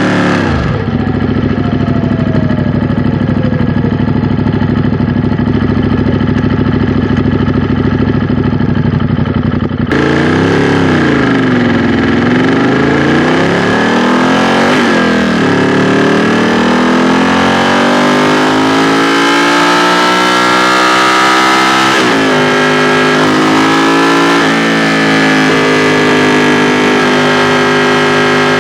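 2016 Ducati XDiavel S's 1262 cc L-twin engine runs at a steady low note for about ten seconds, then the revs rise and fall as the bike pulls away and accelerates through several gear changes.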